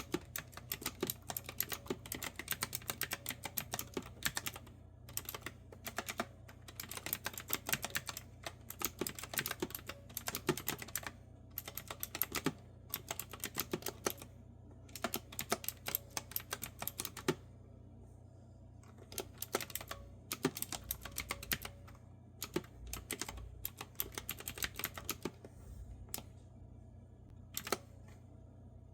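Fast typing on a clicky retro-style mechanical keyboard with round keycaps: runs of sharp key clicks broken by short pauses.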